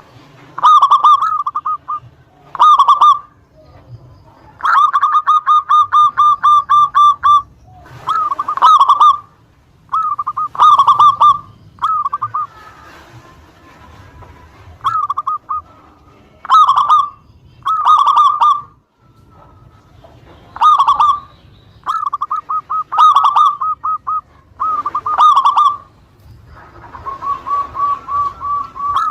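Zebra dove (perkutut) cooing: short phrases of rapid, pulsed coos repeated every second or two, with one longer run of evenly spaced notes about five seconds in and another steady run near the end.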